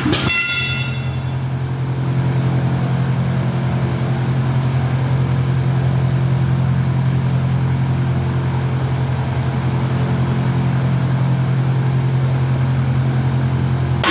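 A running engine's steady low drone with a fine, even pulse. A brief high metallic ring sounds about half a second in.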